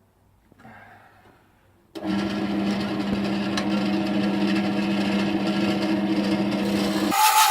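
Wood lathe motor running with a steady hum, starting suddenly about two seconds in after near silence. Near the end it gives way abruptly to a louder, hissier noise.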